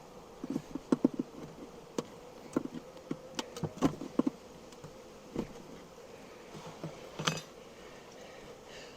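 Honeybees buzzing with a steady hum, over a series of sharp clicks and knocks as wooden hive frames stuck down with propolis are pried loose.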